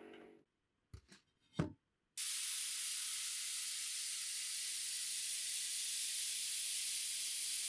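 A few light knocks, then about two seconds in a steady spray hiss starts and keeps on: a finish such as stain or varnish being sprayed onto the wooden clock case.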